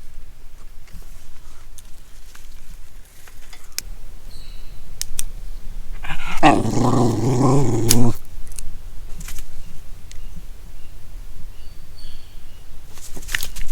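A dog growling playfully for about two seconds, starting about six seconds in, amid a few sharp snaps of sticks being broken.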